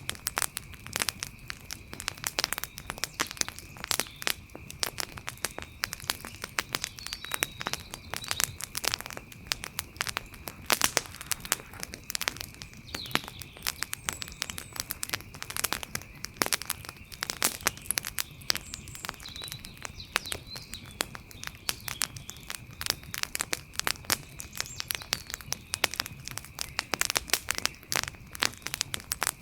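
Wood fire crackling, with a dense, irregular run of sharp pops and snaps. Under it a faint, steady high-pitched tone, and a few faint short chirps now and then.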